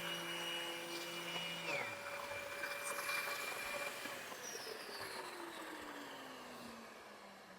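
An electric motor winding down just after being switched off: its whine slides down in pitch and fades over several seconds.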